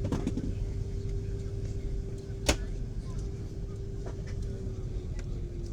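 Airliner cabin ambience with the aircraft parked: a low rumble and a steady hum from the aircraft's systems, with a few clicks and one sharp click about two and a half seconds in.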